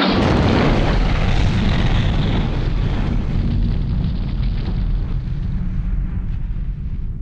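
Bushfire front roaring: a loud, deep rumble that starts suddenly and fades slowly.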